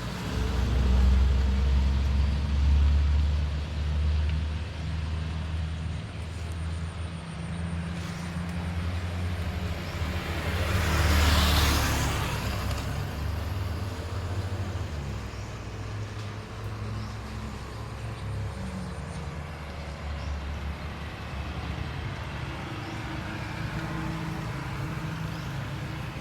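Road traffic: a low, steady motor-vehicle engine rumble, with a louder vehicle passing about eleven seconds in.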